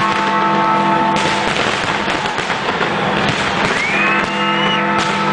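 Fireworks bursting and crackling continuously in a dense barrage, with one rising whistle about four seconds in. Held musical notes sound under the crackle at the start and again in the second half.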